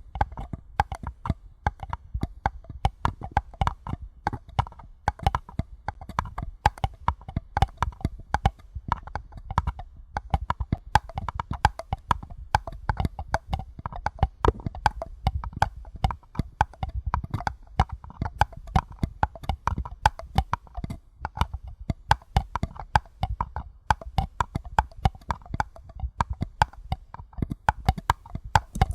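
Paper cups being tapped in quick, continuous runs of light taps, each with a short hollow ring.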